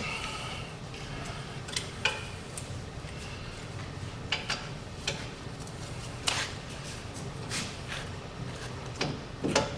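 Hand tools, sockets and wrenches, clinking and knocking against metal while a truck's wheel hub bolts are worked: irregular sharp clicks and taps, about nine of them, spread through the stretch.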